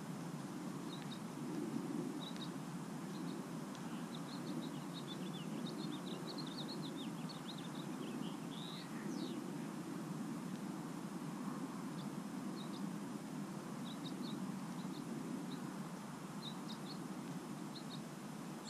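Small birds chirping in short, high calls scattered throughout, over a steady low background noise.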